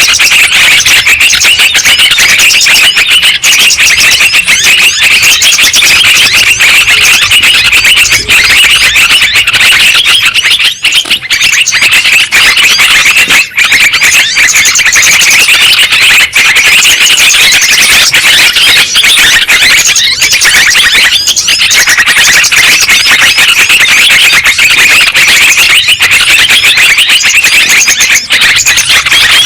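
Yellow-vented bulbuls (trucukan) calling and chattering nonstop. Many bubbly calls overlap into one loud, dense chorus: a lure recording meant to draw the birds in.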